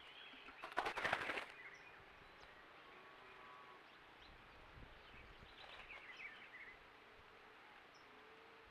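Birds at a drinking trough: a brief loud flurry of rapid beats about a second in, then a few high chirping calls around the middle over a faint outdoor background.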